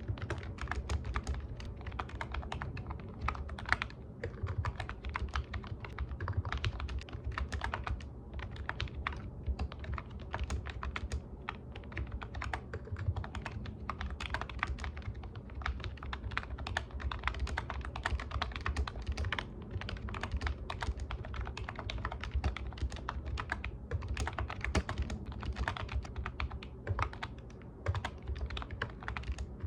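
Computer keyboard being typed on continuously in quick, irregular bursts of key clicks, with brief pauses between runs.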